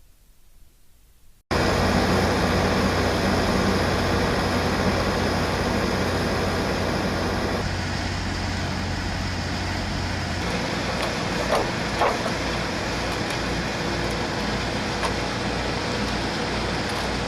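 An engine running steadily. It starts abruptly after a quiet second and a half, and about ten seconds in its low hum turns into an even pulsing.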